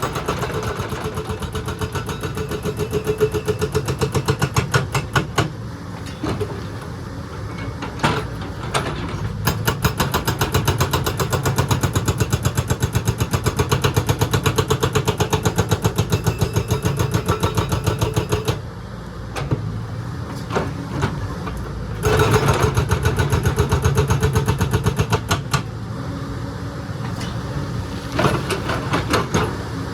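Excavator's diesel engine running under working load, its fast, even throb swelling louder and easing back several times as the hydraulics are worked, with a few sharp knocks.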